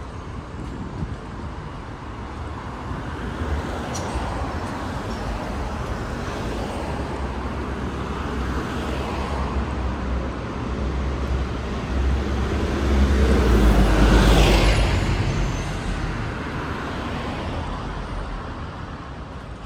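Street traffic: a steady low rumble of passing vehicles, with one vehicle growing louder and passing close about two-thirds of the way through before fading.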